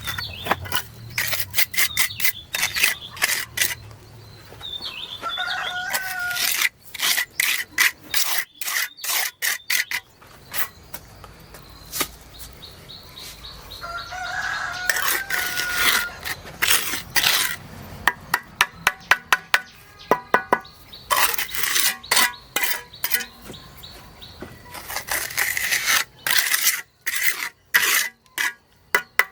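Chickens clucking a few times amid runs of sharp knocks and scraping, which are the loudest sounds.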